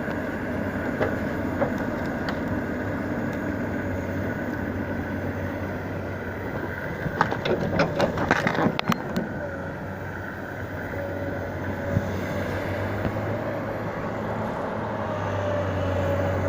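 Engine of a log-hauling tractor running steadily, with a burst of sharp cracks and knocks about seven to nine seconds in.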